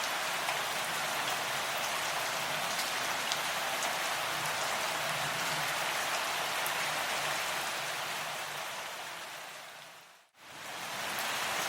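Steady rain falling, with scattered individual drops ticking. About eight seconds in it fades smoothly down to a moment of silence, then swells quickly back to full.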